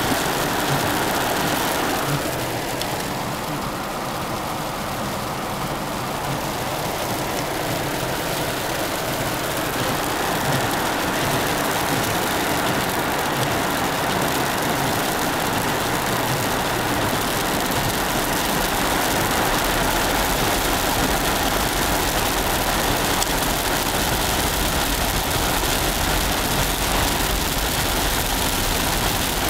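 Hail and rain pattering steadily on a car while it drives, over the car's engine and tyre noise; a low rumble grows about halfway through.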